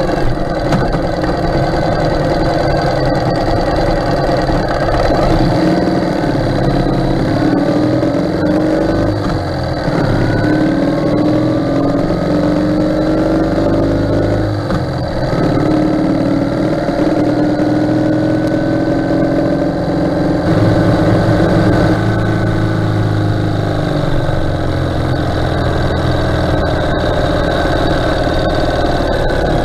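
Ural sidecar motorcycle's air-cooled flat-twin engine running while under way. Its pitch climbs and drops several times as it speeds up and slows, with a marked dip and fresh climb about fifteen seconds in.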